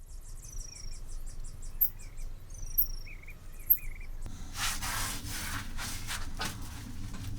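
Insects chirping in fast pulses, with birds whistling and chirping over them. About four seconds in, the sound cuts to a louder, noisy rustle broken by repeated sharp strokes.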